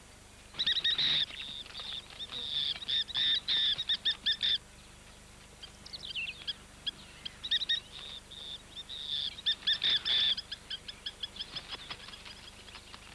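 Plovers calling: rapid runs of shrill, high piping notes in three bursts, with short gaps between.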